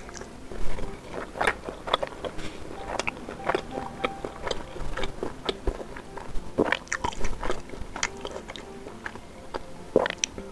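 Close-miked chewing of sempol, chewy chicken-and-tapioca skewers coated in thick chili sauce: irregular wet mouth clicks and smacks, with a louder bite about ten seconds in.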